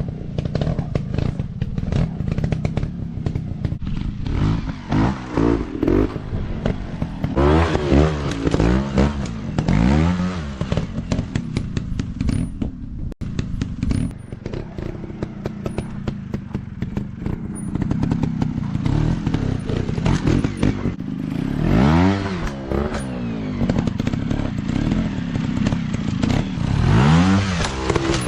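Dirt bike engines revving, the pitch swooping up and down again and again as the throttle is blipped and released, over a steady rattling run.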